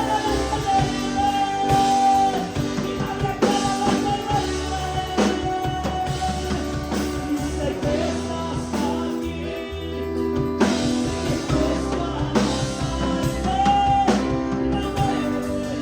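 Worship music: a sung chorus with drum kit and guitar accompaniment, the voice holding long notes over a steady beat.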